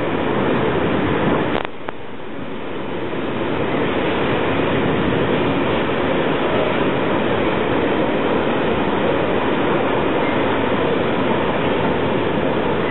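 Freight train of bogie hopper wagons rolling past on the rails, a steady rumble and rattle of wheels over the track. The noise drops sharply just under two seconds in, then builds back up and holds steady.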